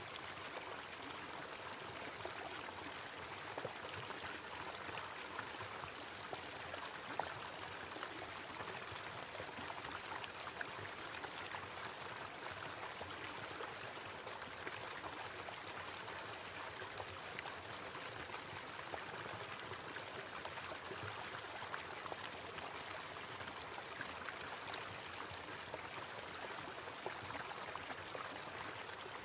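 Small waterfall splashing and running steadily, a continuous rush of falling water.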